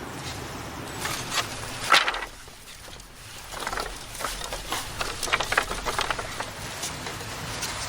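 Irregular rustling and light knocks, the loudest about two seconds in, then a brief lull followed by a busy patch of rustles.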